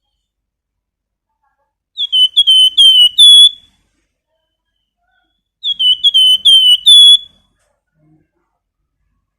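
Flamboyan (golden-bellied gerygone) singing its whistled 'nyiul' song. It gives two phrases of about five short, high, clear whistled notes, each note slurring slightly downward and each phrase ending on a longer note, a few seconds apart.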